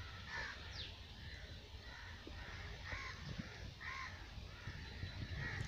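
Birds calling outdoors: a run of short, repeated calls, several a second apart, over a low steady rumble.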